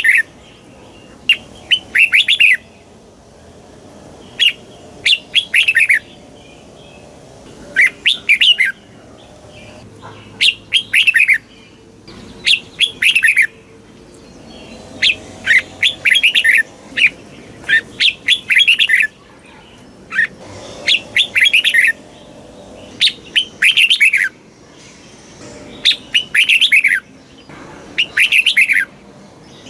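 Red-whiskered bulbul singing: short phrases of several quick, falling notes, repeated every second or two over a faint steady hiss.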